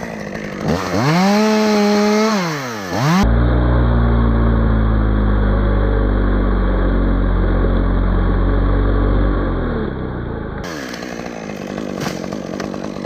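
Chainsaw revving up and held at high speed for a few seconds, then a louder, deeper steady stretch of about seven seconds, then the engine dropping back in pitch and fading near the end.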